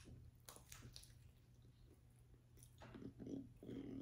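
Faint chewing of a bite of thick deep-dish pepperoni pizza, with a few soft mouth clicks about half a second in.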